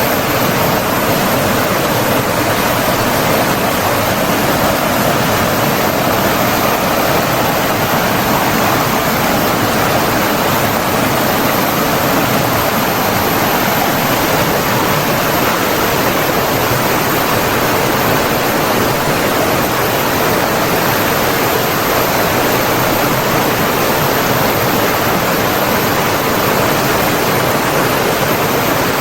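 Rushing water of a stream, a loud, steady, unbroken wash of noise.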